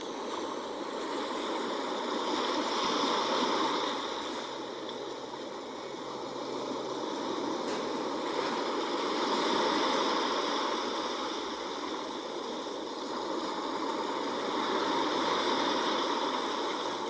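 Sea waves washing in and drawing back, a steady rush of water that swells three times, about every six seconds.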